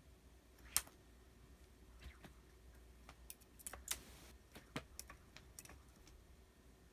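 Irregular light clicks and taps. A single sharp click comes about a second in, and a quick scatter of clicks follows in the middle.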